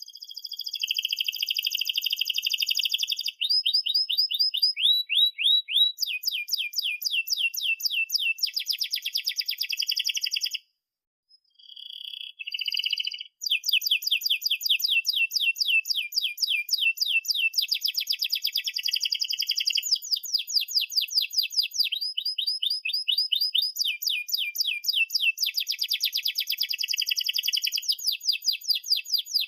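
Domestic canary singing long, fast rolling trills of rapidly repeated chirps, with a short break about eleven seconds in before the song resumes.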